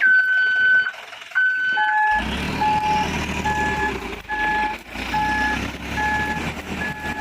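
Mitsubishi Fuso Canter dump truck's reversing alarm: two long beeps, then steady beeping about once every 0.8 seconds. From about two seconds in, the truck's diesel engine runs low underneath.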